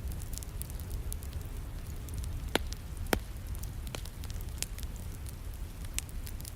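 Wood fire crackling, with frequent sharp pops and two louder ones a little past two and a half and three seconds in, over a steady wash of rain and a low rumble.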